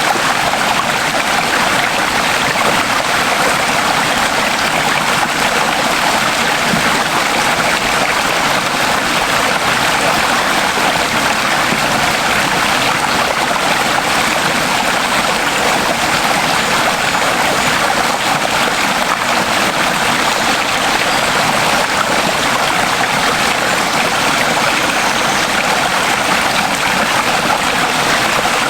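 Running water of a stream, a steady rushing splash that keeps an even level throughout.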